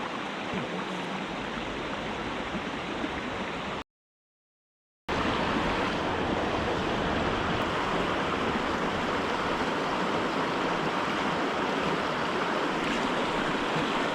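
Rushing water of a mountain stream, a steady wash of noise. About four seconds in, the sound cuts out completely for just over a second, then comes back louder.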